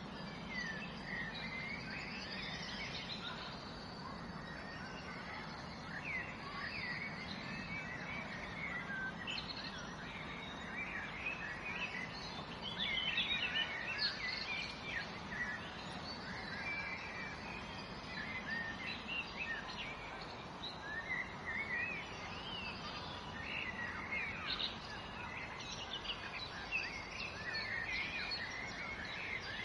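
Many birds chirping and twittering in quick, overlapping short calls, busiest in bursts about halfway through and again near the end, over a steady low background hum.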